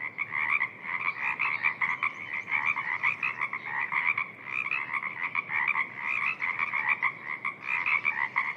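Dense chorus of many frogs calling at once in a spring wetland: short, rapid, overlapping croaks that never pause.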